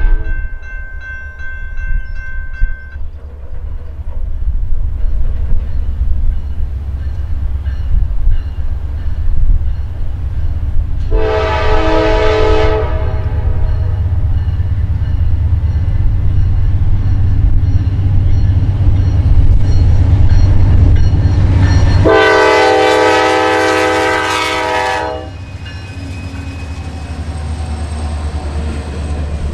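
Train rumbling past with heavy, steady low rumble and wheel noise. A locomotive air horn gives a short blast about eleven seconds in, then a longer, louder blast that cuts off about three seconds later.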